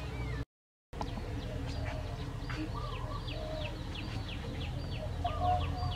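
Outdoor rural ambience: a bird repeats quick downward-sweeping chirps, about three a second, over a steady low rumble, with a few short lower calls mixed in. The sound cuts out completely for about half a second near the start.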